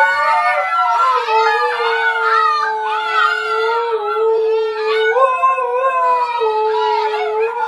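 A group of huskies, an adult and several puppies, howling together: one lower howl held nearly steady for several seconds under many higher, wavering howls.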